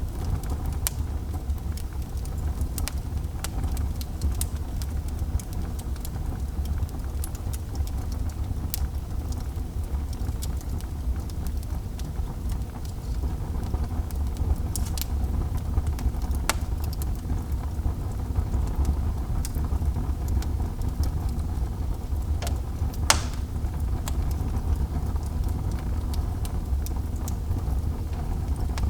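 Wood fire burning in a fireplace: a steady low rumble with scattered crackles and pops, one sharper pop about three-quarters of the way through.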